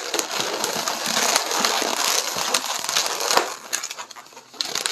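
Latex modelling balloons rubbing and crackling in the hands as they are twisted and squeezed, a dense run of small rubbery clicks and squeaks.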